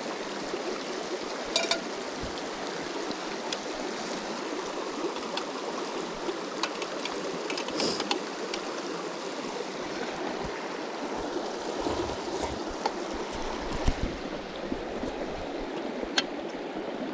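River water flowing steadily over stones, a constant rushing, with a few light clicks now and then.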